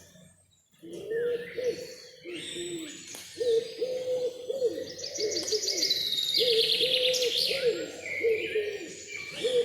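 Forest birds calling: a long run of low hooting notes, repeated many times, under higher chirps and a fast trill from smaller songbirds.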